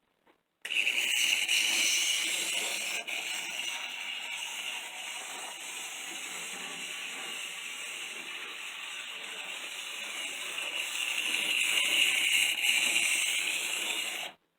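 N scale Atlas Plymouth yard switcher's small electric motor and gears whirring as it runs fast on the track, a little noisy. It starts about half a second in, swells louder near the start and again in the last few seconds, and cuts off suddenly near the end when the power is cut.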